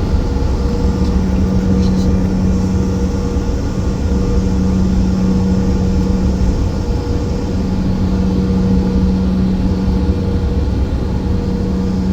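Airliner cabin noise: a steady low rumble with a constant hum.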